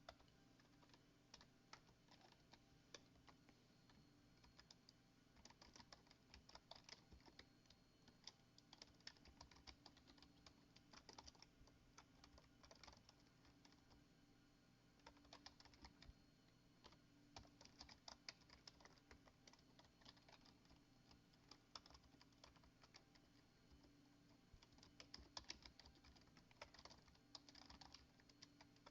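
Faint typing on a computer keyboard: runs of keystroke clicks broken by short pauses.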